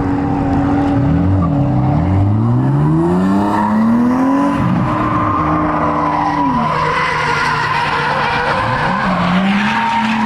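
BMW 135i's turbocharged straight-six held at high revs while drifting, with the tyres screeching as they slide. The engine note dips and climbs back several times, dropping to a lower pitch past the middle before rising again near the end.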